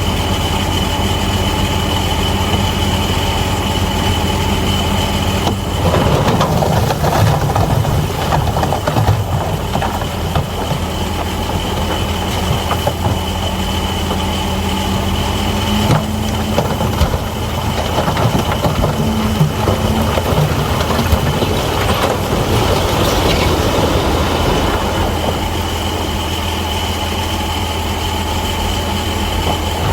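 Bulldozer's diesel engine running steadily with a thin high whine over it. About six seconds in, a rougher, irregular rattle joins as the machine works.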